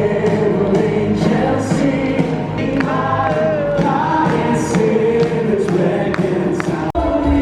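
A choir singing Christmas music with accompaniment. The sound breaks off sharply near the end and gives way to different music.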